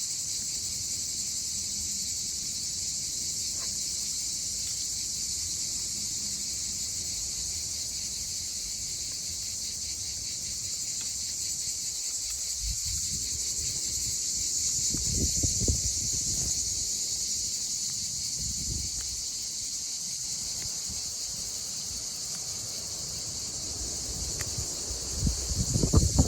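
A steady, high-pitched chorus of insects that goes on unbroken, with some low rumbling about halfway through.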